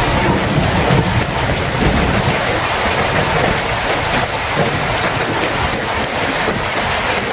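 Steady heavy rain, with a low rumble of thunder in the first two seconds or so that fades away.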